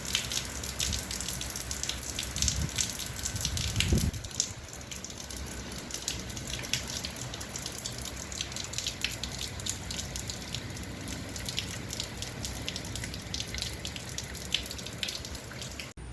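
Hurricane rain falling and dripping, with many sharp drop impacts over a steady hiss and a low rumble underneath. There is a louder low thump about four seconds in.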